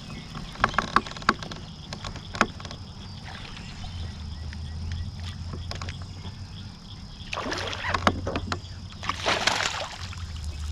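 Water splashing and sloshing beside a kayak as a hooked bass is brought in, with sharp knocks and clicks of gear on the hull early on and two louder splashes near the end. A low steady hum runs under it from about four seconds in.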